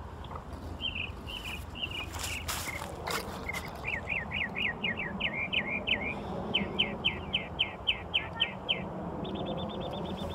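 A bird calling a long series of short, sharp, high chirps, about two to three a second, followed near the end by a fast, even trill.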